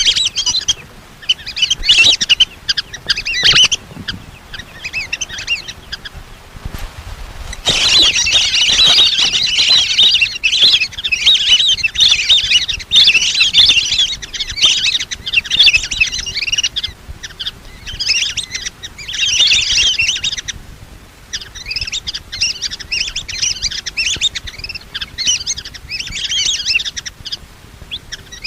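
Lesser whistling ducks calling: a flock's rapid, high whistled chirps in repeated bouts, with a few brief pauses. It is a lure call for drawing wild whistling ducks in.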